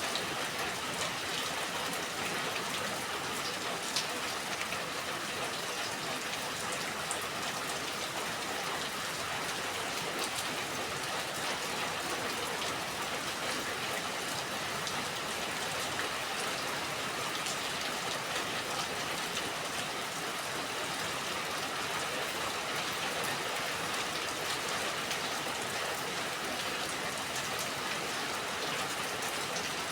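Steady rain falling: an even, unbroken hiss with scattered individual drops ticking through it.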